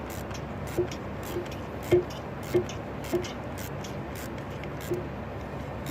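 A bolt being tightened down with a hand tool on a car engine: short, sharp metallic clicks about every half second over a steady low hum.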